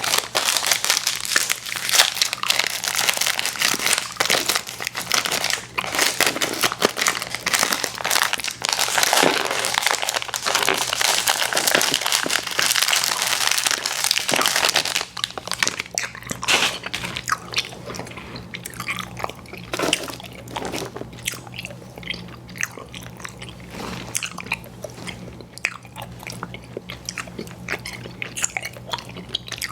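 Close-miked chewing and biting of chewy fruit candies, with crunchy, wet mouth sounds. The chewing is dense and loud for about the first half, then turns quieter and sparser.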